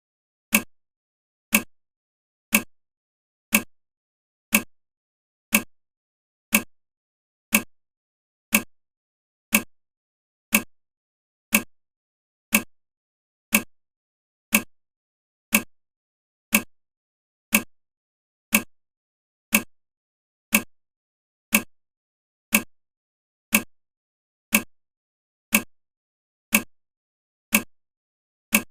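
A short, sharp tick repeating evenly once a second, with quiet between the ticks.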